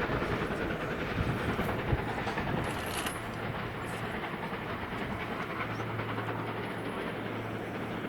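Train running along the track, with a steady low hum and a few clicks under the rolling noise, easing off slightly before holding steady.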